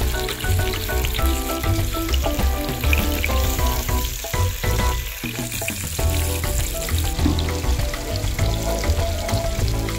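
Sliced onions sizzling in hot oil in a pot as a spatula stirs them, over background music with a steady bass and a melody of short notes.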